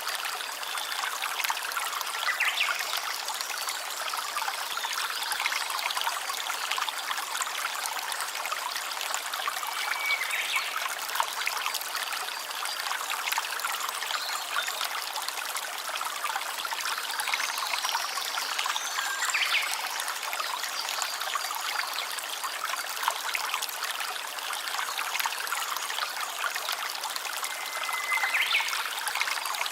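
Shallow stream trickling and babbling steadily, with four short high chirps spaced well apart.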